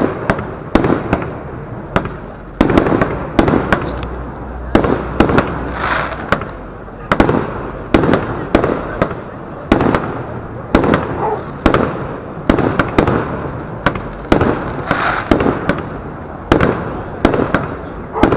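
Aerial fireworks fired one after another: a sharp bang of a launch or shell burst every half second to a second, each followed by an echoing rumble.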